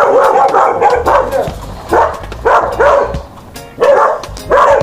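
A dog barking repeatedly in short, loud barks, several in quick succession with brief gaps between them.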